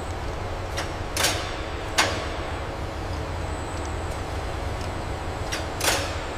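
Steady machine hum and rumble in a large workspace, broken by a few short hisses and a sharp knock about two seconds in.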